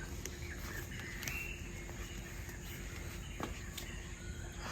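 Rainforest morning ambience: a few short bird chirps and insect calls over a steady low background noise.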